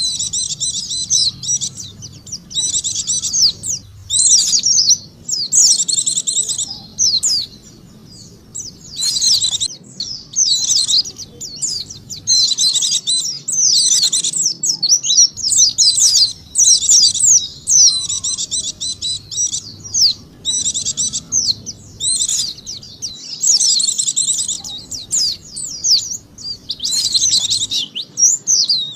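White-eye (pleci) song used as a lure call: rapid, high twittering phrases in bursts of a second or two, repeated with short breaks.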